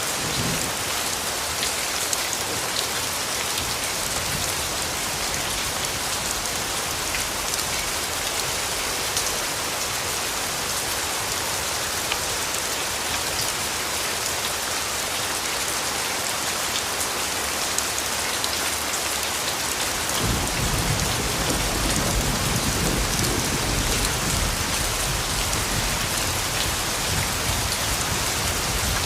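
Steady rainfall with fine pattering drops. About twenty seconds in, a low rumble of thunder comes in under the rain and keeps going.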